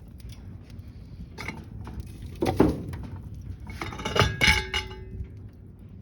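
Split firewood logs being laid onto a fire in a fireplace: several clattering knocks of wood against wood and metal, in bunches, the loudest pair about four seconds in followed by a short metallic ring.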